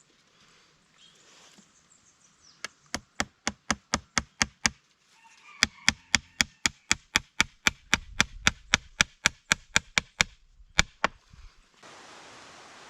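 A fast series of sharp, evenly spaced knocks, about four a second, in two runs with a short pause between, like repeated chopping or hammering strikes. A steady hiss starts near the end.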